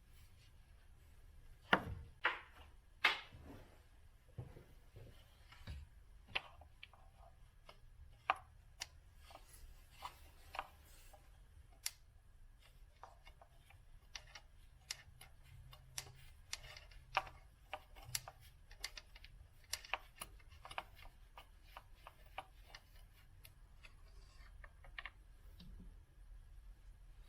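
Irregular clicks and knocks of hand tools and small metal parts being handled while working on a car engine. The sharpest knocks come about two and three seconds in, followed by many lighter scattered ticks.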